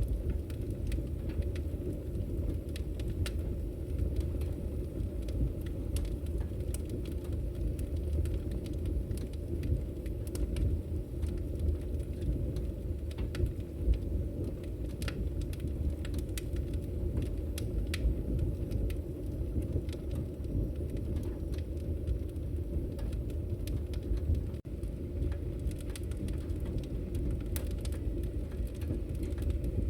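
Wood fire burning: a steady low rumble of flames with scattered sharp crackles and pops from the logs.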